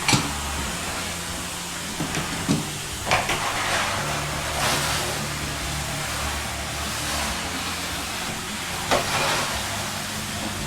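Vacuum cleaner running with a steady hissing rush and low motor hum, broken by several sharp knocks, the clearest near the start and about nine seconds in.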